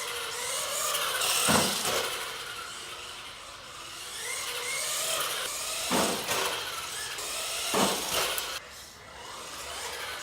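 Small 1/18-scale RC truck's electric motor whining up and down in pitch as it is driven, with its tyres scraping and scrubbing on a hard shop floor; three louder bursts of acceleration come about 1.5, 6 and 8 seconds in.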